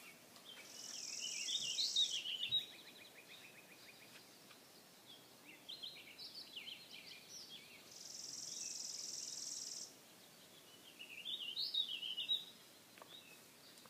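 Songbirds singing: three spells of chirping, warbling song, the first ending in a quick even trill. Twice there is also a steady high-pitched buzz lasting about two seconds.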